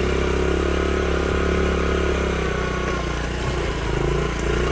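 Honda CT70's small single-cylinder four-stroke engine running as the trail bike is ridden. The engine note is steady, eases slightly a little after three seconds, then picks up again near the end.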